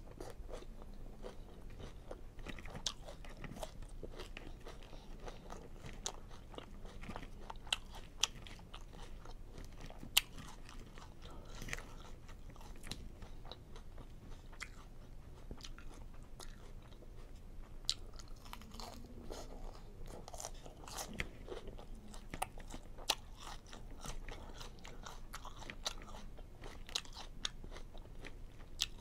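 Close-up chewing and crunching of a chicken Cobb salad, lettuce and chicken, with occasional sharp clicks of a plastic fork against the plastic salad bowl.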